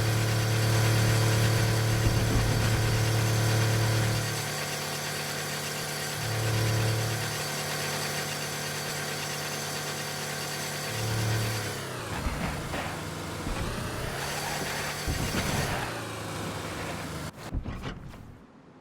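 Car engine running with a steady droning hum made of many even tones; the low hum swells and fades a few times. Roughly two-thirds through, the pitch dips and rises again. A few clicks follow, and the sound cuts off just before the end.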